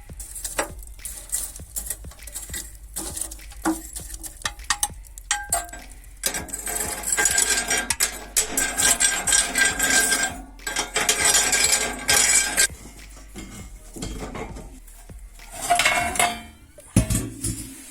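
Metal clattering and scraping at a solid-fuel furnace: scattered clinks and knocks, then about six seconds of dense rattling in the middle, and another short burst of rattling near the end.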